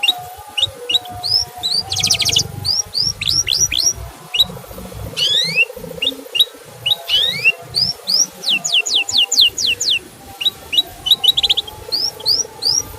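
Male canary calling in a string of short rising 'cuit' chirps, broken by two brief buzzy trills and, about two-thirds through, a quick run of downward-sweeping whistles.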